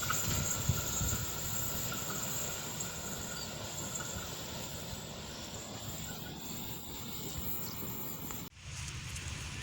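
Passing train's steady low rumble of wheels on rail, easing slowly after its horn. The sound breaks off abruptly near the end and a similar low rumble resumes.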